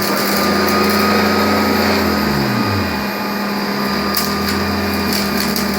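Old Hoover Convertible upright vacuum cleaner running steadily on carpet, sucking up broken chicken bone pieces. Its low hum dips in pitch briefly about two seconds in, and a few sharp clicks come near the end.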